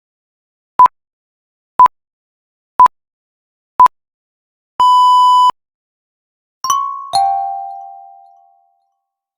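Quiz countdown sound effect: four short electronic beeps a second apart, then one longer beep, followed by a two-note descending ding-dong chime that rings out.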